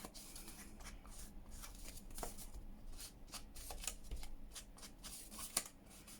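Sheets of craft paper being handled: a run of short rustles and slides as the papers are picked up, shuffled and laid down.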